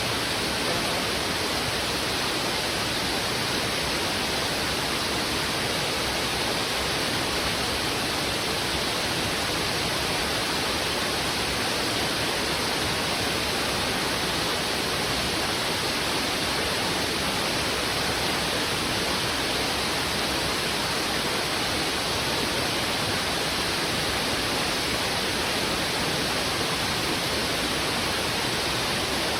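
Heavy river current rushing over rocks: a steady, even rush of water with no break or change.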